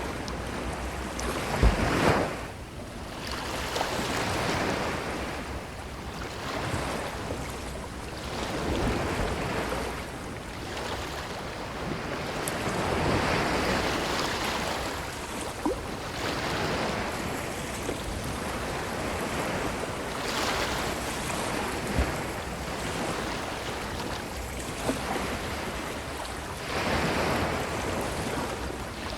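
Ocean waves washing onto a beach, surging and drawing back over and over every few seconds. A brief sharp thump comes about two seconds in, and another one later.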